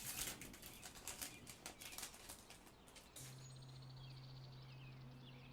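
Crinkling and rustling of trading card packaging being torn open. About three seconds in it gives way to a steady low hum.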